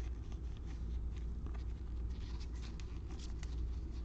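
Baseball trading cards being handled and flipped through by hand: a run of light flicks and rustles over a steady low hum.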